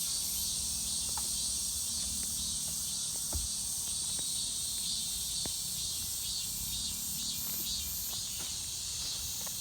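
Insects chirring in a steady, high drone with an even pulsing beat, over a low rumble and a few faint clicks.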